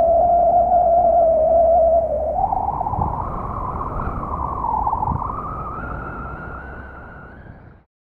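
Car engine and drivetrain whine heard from inside the moving car as it accelerates. The pitch holds steady, then rises, dips briefly about five seconds in as at a gear change, and rises again over a low road rumble, before fading out near the end.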